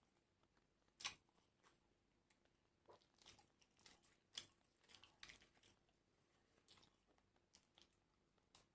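Faint close-up chewing and crunching of crisp food, a string of irregular crunches with the sharpest about a second in and another near four and a half seconds.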